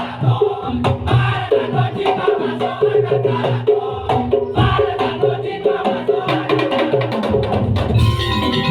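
Madurese daul (tong-tong) percussion ensemble playing a fast arrangement: dense drum and wood-block strokes under repeating pitched melodic figures. About eight seconds in the texture changes and a held higher tone enters.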